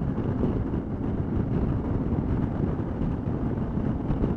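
Wind buffeting the microphone of a motorcycle rider's action camera at road speed, a steady rushing noise mostly in the low end, over the Suzuki V-Strom 650 and its tyres on the road.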